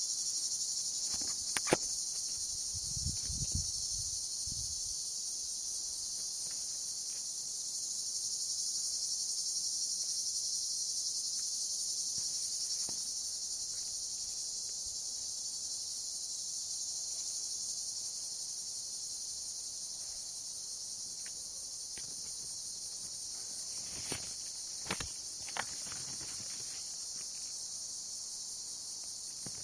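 Steady, dense high-pitched chorus of insects. A few sharp clicks stand out, and a brief low rumble comes about three seconds in.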